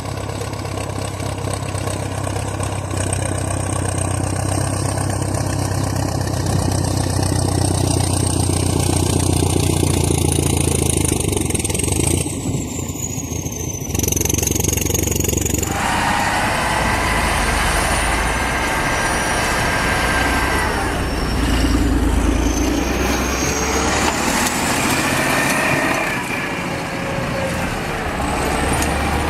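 Heavy diesel engines of Soviet bulldozers and tractors working under load while pushing snow. The sound changes abruptly about halfway through, as a different machine takes over.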